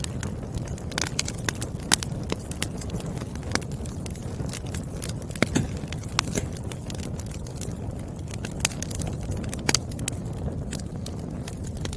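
Burning firewood crackling, with a steady low rush of the flames under sharp pops and snaps at irregular moments. A few pops stand out louder: about two seconds in, around five and a half seconds, and near ten seconds.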